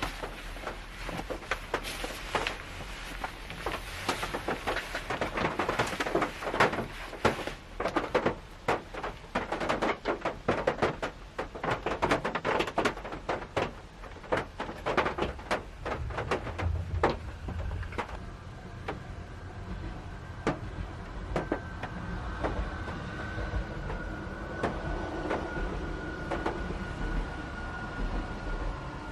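Raindrops hitting the roof and body of a Honda Step Wagon minivan, heard from inside the cabin: many irregular drops, densest in the first part and thinning out later. A faint steady high tone comes in about two-thirds of the way through.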